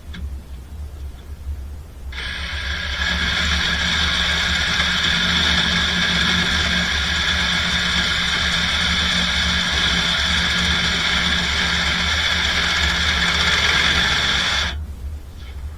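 Power saw cutting through a cracked 3-inch drain stack: it starts about two seconds in, runs steadily for about twelve seconds, and stops abruptly. A low hum runs underneath throughout.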